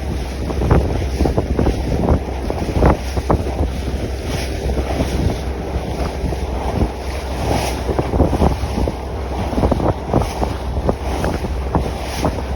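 Wind buffeting the microphone on a sailboat sailing upwind, in uneven gusty thumps over a steady rush of water along the hull.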